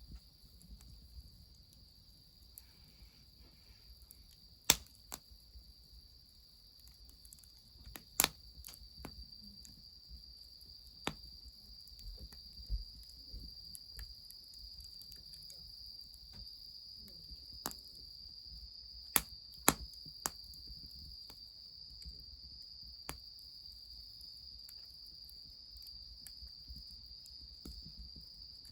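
Steady high insect chirring, with a wood fire giving sharp crackling pops every few seconds.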